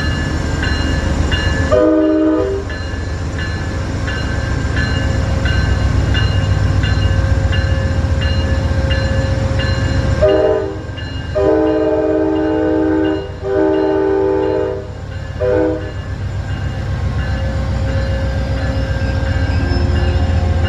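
Amtrak GE P42 diesel locomotive rumbling slowly past at close range, its multi-chime air horn sounding one short blast about two seconds in, then a short, two long and a short blast in the middle. A bell dings about twice a second.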